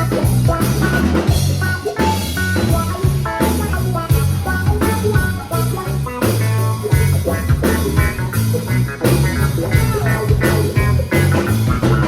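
Live ska-rock band playing an instrumental passage: a heavy bass line, a steady drum-kit beat and guitar notes over it.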